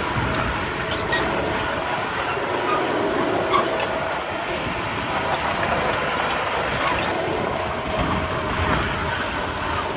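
Komatsu D31P crawler bulldozer working: its diesel engine runs steadily while its steel tracks give scattered sharp metallic clanks and squeals.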